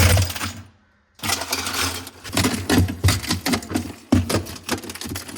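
Chunks of ice being broken loose and dropped into an ice bucket: a clatter at the start, a short pause, then rapid, continuous clinking and rattling of ice.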